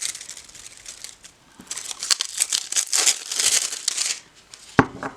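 Crinkly packaging being handled and crumpled, a run of crackling rustles for a couple of seconds, then a single sharp tap near the end.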